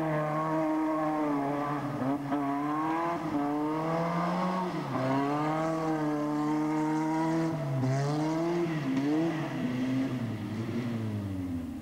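Car engines revving hard as the cars are driven around, the pitch rising and falling every second or two, then dropping away near the end.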